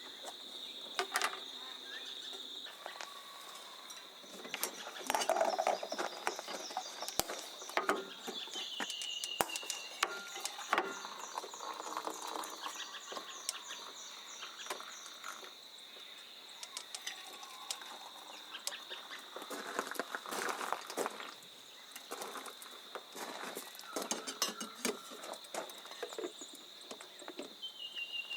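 Scattered clicks, knocks and clinks of camp cooking gear being handled outdoors, against a steady high-pitched drone and a few short bird chirps.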